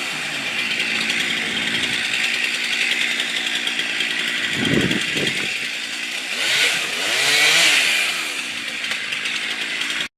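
Chainsaw running, revved up and back down twice near the end.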